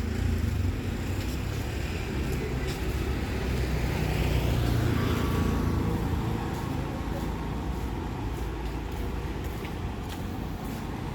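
Town street traffic: a steady low rumble of vehicles, with one vehicle passing close by, louder about four to five seconds in.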